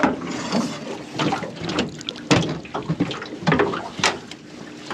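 A freshly landed squid squirting water and ink, with splashes and several sharp knocks against the aluminium tinny's hull.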